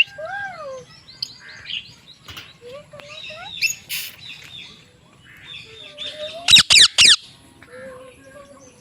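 Pet parrot calling: a string of short whistles and chirps that glide up and down in pitch, with a harsh squawk near the middle and three loud, sharp calls about two-thirds of the way through.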